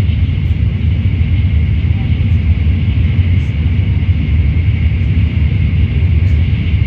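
Shinkansen bullet train running at speed: a steady, loud low rumble with an even hiss above it.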